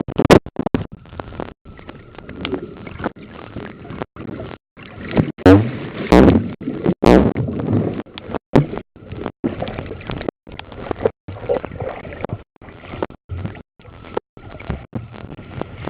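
Muffled, irregular rubbing and sloshing of a compact camera's waterproof pouch against its microphone as it moves through water, cutting out in many short gaps, with the loudest swells about halfway through.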